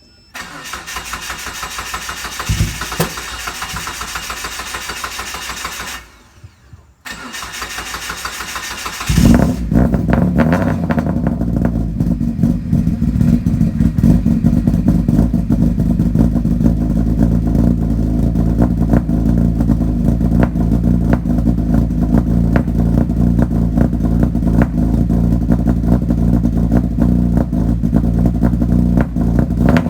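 Car engine cranked by its starter for about six seconds without catching, then cranked again and firing about nine seconds in. It settles into a steady idle to warm up.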